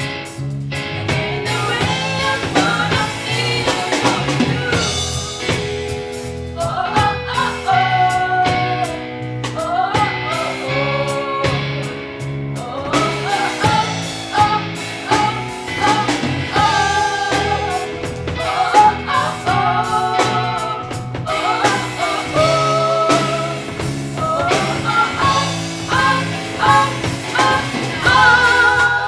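A song performed live: singing over a backing of guitar, bass and drums.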